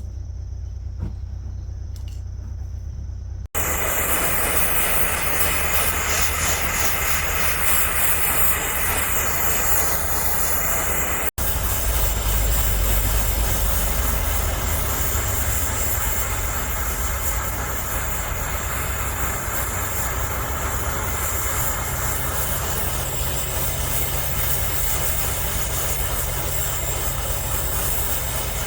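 Steady loud hissing noise over a low rumble, broken by abrupt cuts about 3.5 and 11 seconds in; before the first cut there is only the low rumble.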